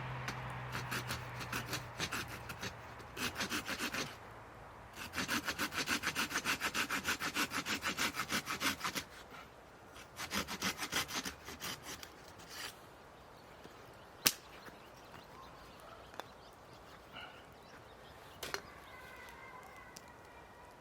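Hand saw cutting through wood in quick, even strokes, about four or five a second, in several runs with pauses between; the longest run lasts about four seconds. A single sharp click follows later.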